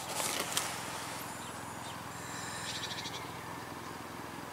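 Quiet background ambience with faint bird chirps now and then, and a brief rustle and knock of a packaged figure box being handled near the start.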